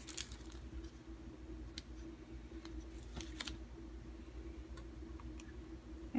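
Faint, scattered clicks and taps of small craft items being handled and set on a tabletop, over a steady low hum.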